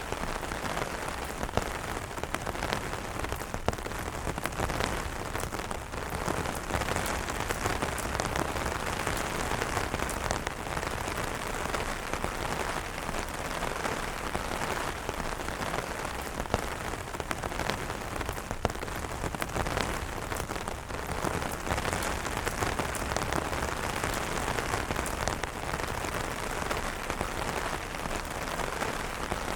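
Steady rain falling on umbrellas: a dense, even hiss of rain with many sharp single drop hits scattered through it.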